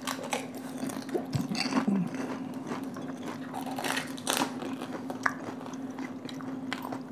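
Two people biting and chewing whole panipuri, the crisp fried puri shells crunching and crackling in many short sharp bursts, over a steady low hum.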